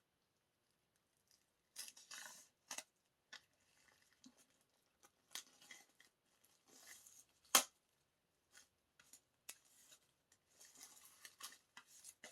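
Paper and packaging of an album being handled: scattered short rustles and crinkles, with one sharp click a little past the middle.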